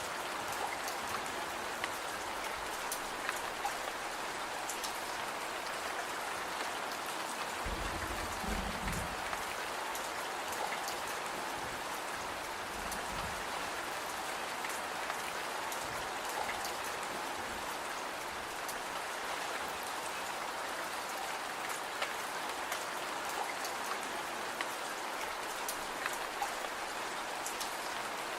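Steady rain falling, with scattered light ticks of drops and a short low rumble about a third of the way in.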